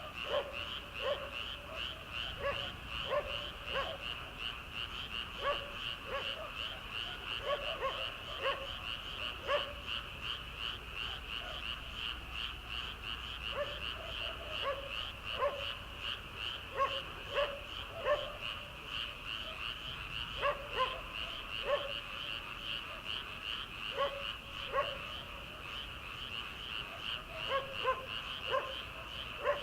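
Chorus of many frogs calling from flooded rice paddies: a dense, rapid pulsing chorus high in pitch, steady throughout, with louder short lower croaks repeated in irregular clusters over it.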